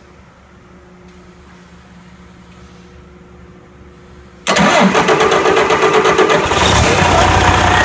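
Low steady hum, then about four and a half seconds in the 2011 Detroit Diesel DD15 inline-six diesel engine cranks on its starter with rapid even pulses, catches within about two seconds and runs.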